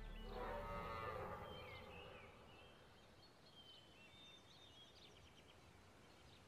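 Faint forest birdsong: scattered short high chirps and trills, after a wavering pitched animal call in the first two seconds.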